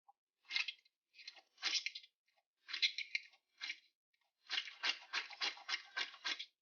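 An Orbeez-filled squishy toy squeezed by hand, giving short crunchy, squelching crackles. A few separate squeezes come first, then a quick run of about four squeezes a second near the end.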